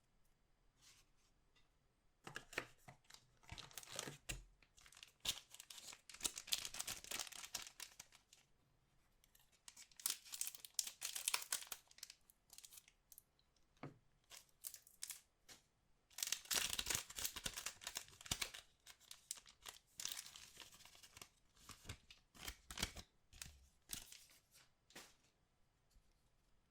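Trading card packaging being torn open and crinkled by hand, in several bouts of tearing and rustling with short pauses between.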